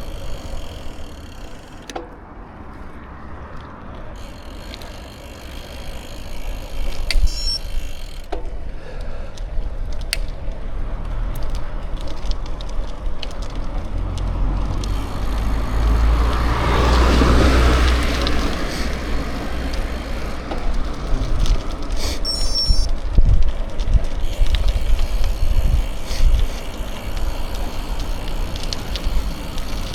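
Bicycle riding along a road, with a steady low wind rumble on the microphone and tyre noise. About halfway through, a passing car swells up and fades away.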